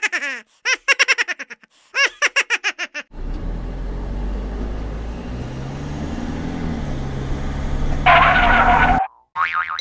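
High-pitched cartoon giggling in three quick runs, then a car engine sound effect that starts about three seconds in and runs steadily as the rocket-boosted shoe car drives off, with a louder hissing burst for about a second near the end before it cuts off.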